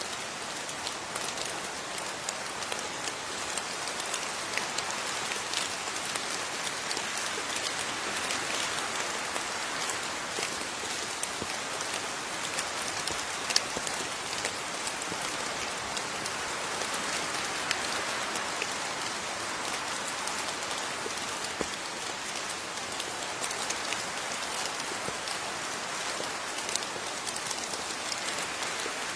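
Steady rain falling, with many separate drop hits clicking through the even hiss of the downpour. A single sharper drop hit stands out about halfway through.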